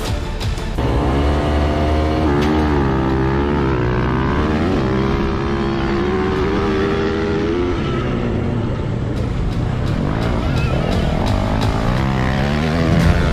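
Dirt bike engine revving, its pitch rising and falling repeatedly through the first several seconds before settling into a steady run.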